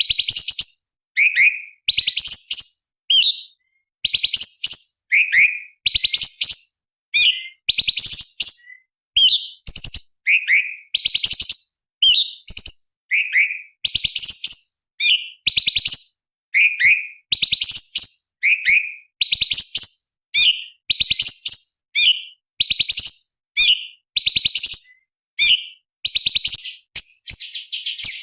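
Orange-bellied leafbird (cucak cungkok) singing. It repeats a phrase about once a second: a short down-slurred whistle followed by a harsh, rapid rattling chatter. Near the end the song turns into a denser scratchy burst.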